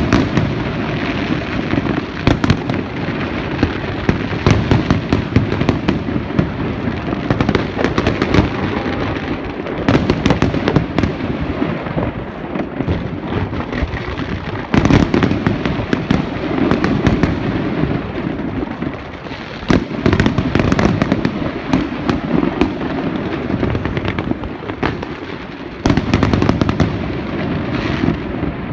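Aerial fireworks display bursting continuously: dense crackling and rapid bangs, with louder volleys of booms every five seconds or so.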